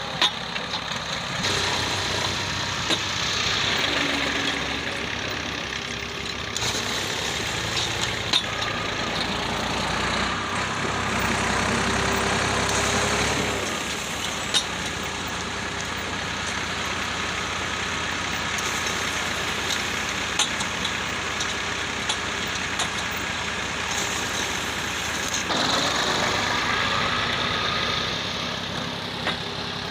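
Tractor engine running steadily, driving a brick-making machine through a lever on its rear wheel, with a few sharp knocks from the machinery.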